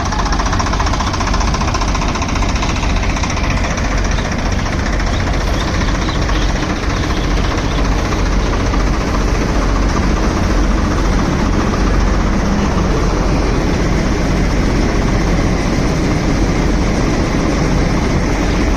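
Swaraj 855 tractor's three-cylinder diesel engine running steadily and loudly.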